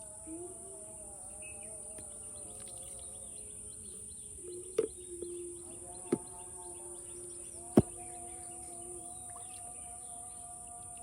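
Outdoor ambience of birds chirping over a steady high insect drone, broken by three sharp knocks a little under halfway through, then about a second and a half and three seconds later; the last is the loudest.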